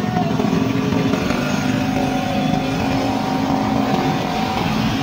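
Motor scooter and motorcycle engines running steadily, a continuous mechanical hum with a held pitch.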